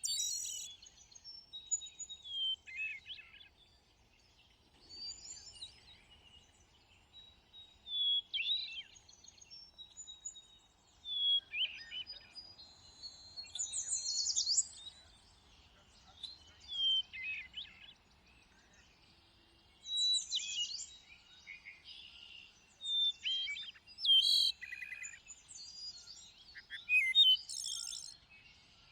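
Several songbirds singing in overlapping short phrases of clear whistled notes, falling slurs and brief trills, a new phrase every couple of seconds with short pauses between.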